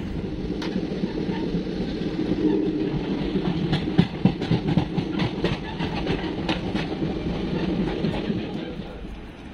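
Indian Railways sleeper coach in motion, heard from its open door: a steady rumble of wheels on the track. In the middle comes a quick run of clicks and clacks as the wheels cross rail joints, and the sound eases off a little near the end.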